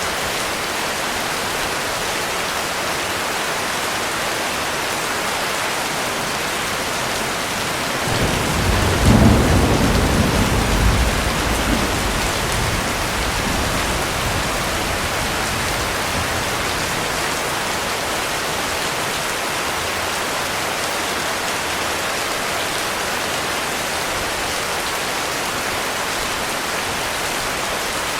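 Heavy rain falling steadily. About eight seconds in, a roll of thunder rumbles, loudest for a few seconds, then fades away.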